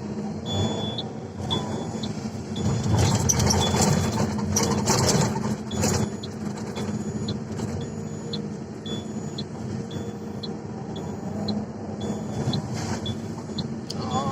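Heavy earthmoving machinery's engine running steadily, with a louder, rougher stretch a few seconds in.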